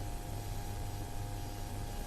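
Steady cockpit hiss and low hum of a Flight Design CTLS light-sport aircraft in flight with its engine running, heard through the headset intercom, with a few faint steady tones.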